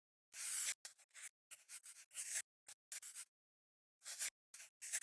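Scratchy rustling and scraping in short bursts, about two or three a second, with dead silence between them: hands handling something papery or plastic.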